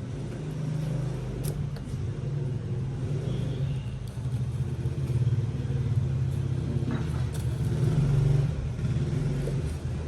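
An engine running, a low steady hum that swells in level twice, about halfway through and near the end.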